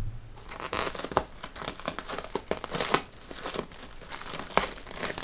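Packaging crinkling and tearing as a parcel is unwrapped by hand, in irregular crackles with sharp rustles.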